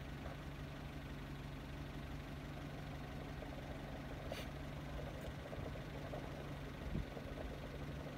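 SsangYong Kyron SUV engine running steadily as a low, even hum while it climbs a steep dirt slope. A brief high chirp sounds about halfway through.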